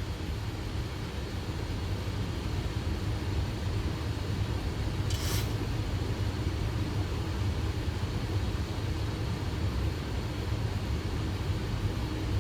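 Steady low rumble of airflow and engines on the Boeing 737 flight deck during final approach, with a brief hiss about five seconds in.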